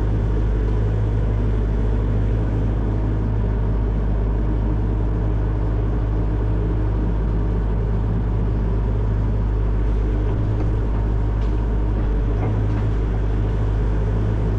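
Excavator's diesel engine running at a steady speed, a constant low drone.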